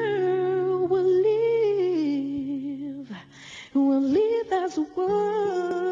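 Music: a solo voice singing long held notes over a steady low accompaniment, pausing briefly about three seconds in.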